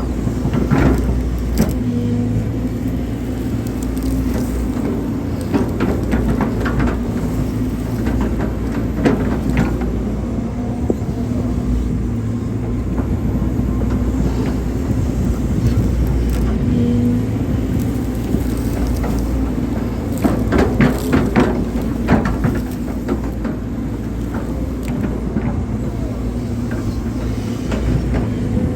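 Hydraulic excavator's diesel engine running steadily under working load, its pitch shifting a little as the hydraulics work. Scattered clanks and knocks come through, with a cluster of them about twenty seconds in.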